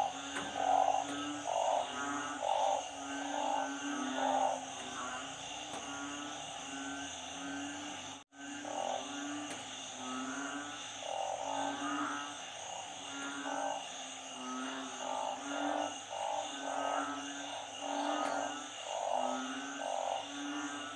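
Chorus of frogs calling in floodwater after a storm: many short croaks overlapping and repeating every half second or so, some deep and some higher, over a steady high-pitched whine. The sound cuts out for a moment about eight seconds in.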